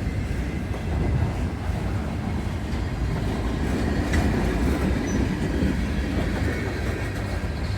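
Train running past with a steady low rumble, and a single sharp click about halfway through.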